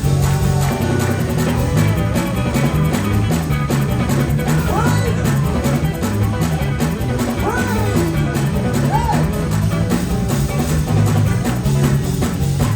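Live gospel band playing an up-tempo groove: guitar over a steady bass line and busy drums.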